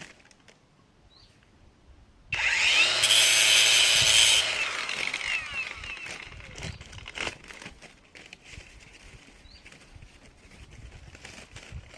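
Cordless angle grinder starting abruptly about two seconds in and grinding a metal rod for about two seconds. It then spins down, its whine falling away over the next couple of seconds, followed by faint clicks and rustling.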